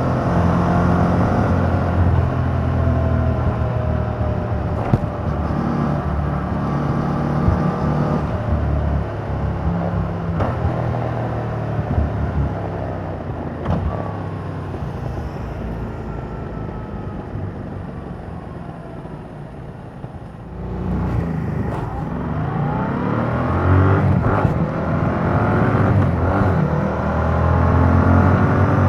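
2021 Yamaha MT-07's parallel-twin engine through its stock exhaust while riding: the engine note falls away gradually as the bike slows, then about two-thirds of the way through the throttle opens and the revs climb in repeated rising sweeps as it accelerates through the gears.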